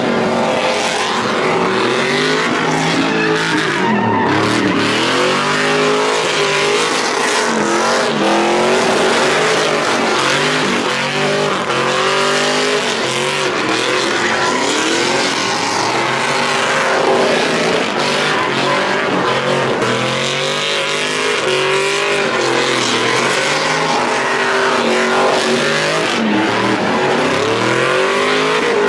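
Truck engine revving up and down again and again over a steady haze of noise.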